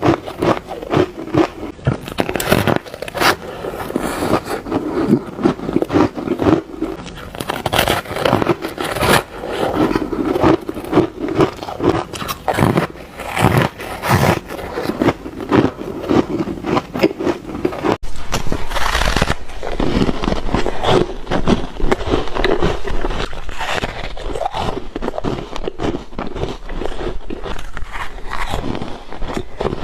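Ice being bitten and crunched close to the microphone, bite after bite in quick succession with crackly, scraping crunches. About two-thirds of the way through the recording changes, as if to a different batch of ice.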